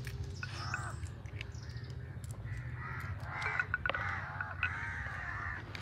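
Repeated short, harsh bird calls in two runs, one about half a second in and a longer run from about three seconds in. Small clicks of fresh pea pods being split by hand sound underneath.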